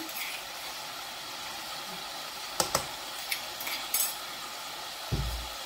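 Chicken pieces cooking in a pot on a gas hob, giving a steady sizzling hiss. A few light clicks of a utensil come in the middle, and a short low thump comes near the end.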